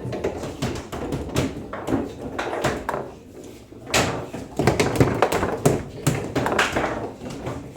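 Foosball table in play: irregular sharp knocks and clacks as the ball is struck by the rod figures and bounces off the table.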